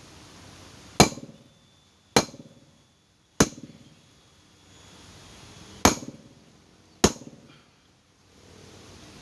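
Five sharp hammer blows on metal, in two groups: three about a second apart, then two more after a pause. Each has a brief high ringing, as when a bearing is knocked in or out during a water pump bearing replacement.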